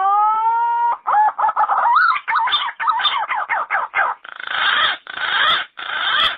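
Yellow-footed green pigeon singing: a long whistled note rising in pitch, then a quick run of warbling, wavering notes that turn rougher near the end before stopping abruptly.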